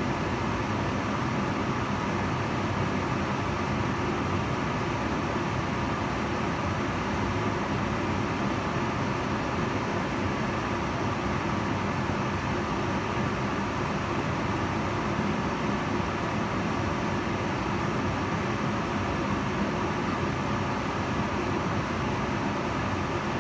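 Kitchen range hood fan running steadily, a constant whoosh of moving air with a faint low hum.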